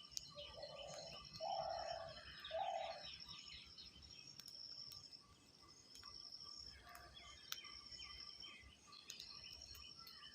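Birds chirping and twittering with rapid high trills. Three louder, short calls come about a second apart near the start.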